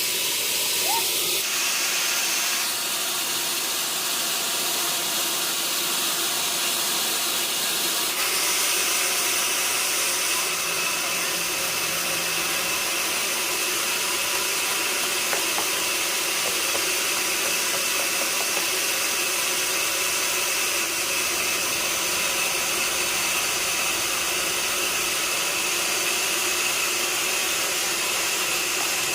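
Sawmill saw running through wood: a steady hiss-like noise that shifts in tone a few times in the first ten seconds.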